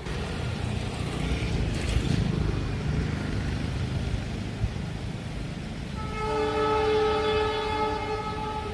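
A train running with a steady low rumble; about six seconds in, its horn sounds once, a held chord lasting about two and a half seconds.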